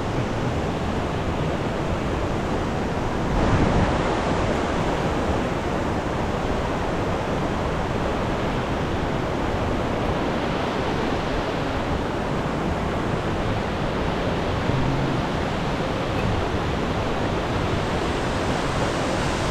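Steady rushing roar of falling water from a waterfall, even across the whole range, with a brief louder swell about three and a half seconds in.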